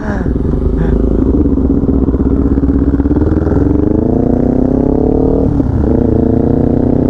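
Kawasaki Ninja 400's parallel-twin engine accelerating away from a stop. Its pitch rises steadily, drops at a gear change about five and a half seconds in, then rises again.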